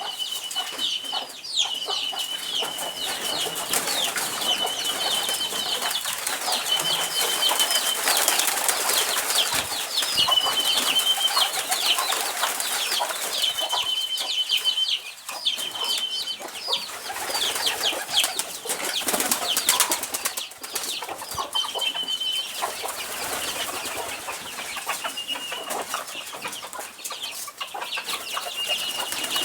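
Birds around a poultry yard: a steady chorus of short, high, falling chirps and flapping wings. Through it a high, even note is held for about a second, about a dozen times.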